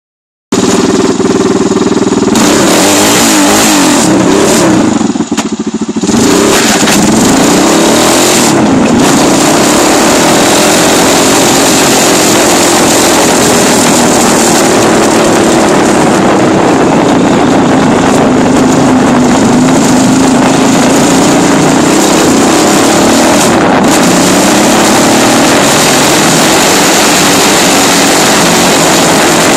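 Dirt bike engine running loud as it is ridden, its pitch rising and falling with the throttle. The sound dips briefly about five seconds in, then picks up again.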